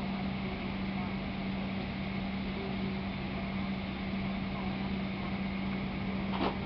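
Steady drone of ramp machinery around a cargo aircraft: a constant low hum under a noisy wash, with one short knock near the end.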